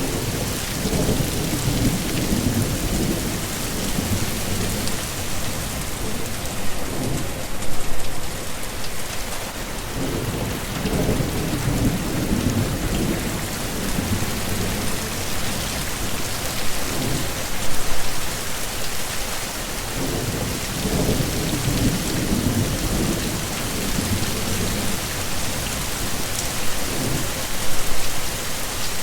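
Steady heavy rain hissing, with low rumbles of thunder swelling and fading every few seconds. The loudest rumbles come about ten seconds apart.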